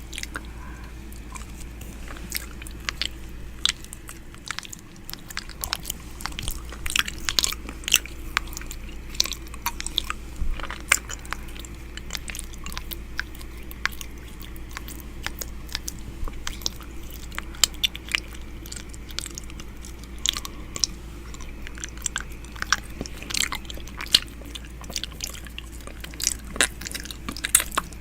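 ASMR 'ear eating' mouth sounds right at the microphone: irregular wet clicks, smacks and pops, many a second, over a steady low hum.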